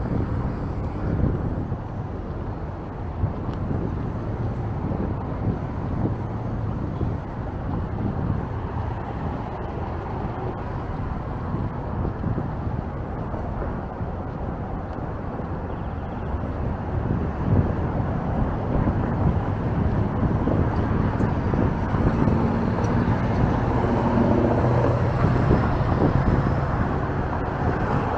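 Street ambience: road traffic running by, getting louder near the end as a vehicle passes close, with strong wind on the microphone.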